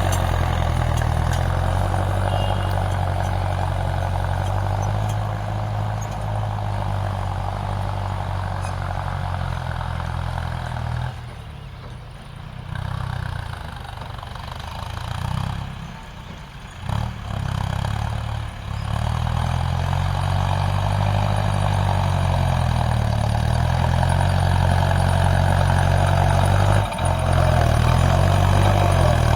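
Tractor engine running, with a steady low drone. It falls quieter and uneven for several seconds in the middle, then comes back to full strength.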